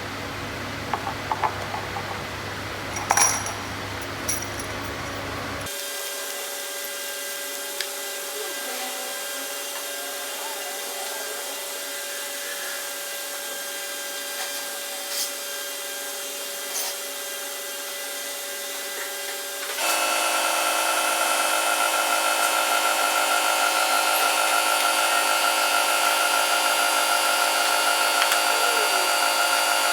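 Steady machine hum made of several fixed tones, with a few light clicks and knocks. It gets louder and fuller about twenty seconds in.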